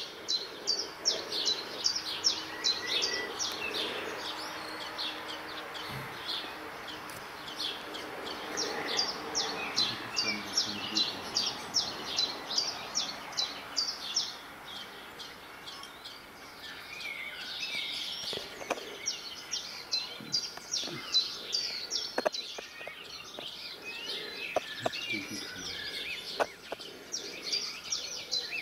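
Wild songbirds chirping and singing together: a dense, unbroken run of quick, high chirps, with a few faint taps in the second half.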